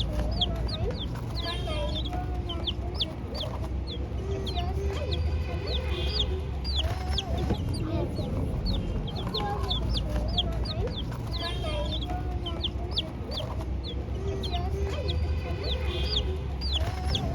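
Many chicks peeping continuously: short, high, falling peeps, several a second, with some lower wavering calls underneath and a steady low hum.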